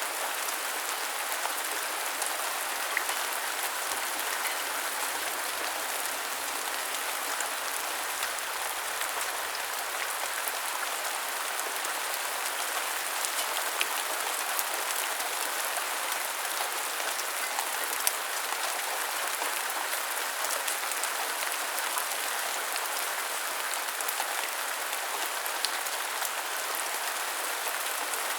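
Steady rain falling: an even hiss with a few sharp drop ticks scattered through it.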